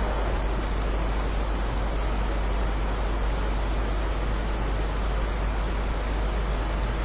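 Heavy rain falling steadily: an even, unbroken hiss with a deep low rumble underneath.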